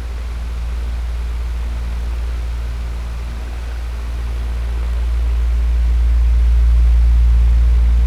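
Electric fan running steadily: a low motor hum under an even rush of air, swelling slowly louder and easing back over a few seconds.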